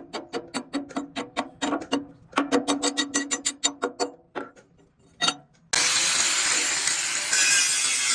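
Metalworking on steel: a quick run of sharp, ringing metal taps, about five a second, for about four seconds, then a couple of single taps. About six seconds in, a loud, steady rasping noise starts abruptly and keeps going.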